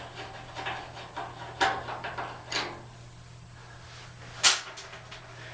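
Screws being taken out of a dryer's back panel: a few light clicks and knocks of the tool and hardware about once a second, then a single sharp clink about four and a half seconds in.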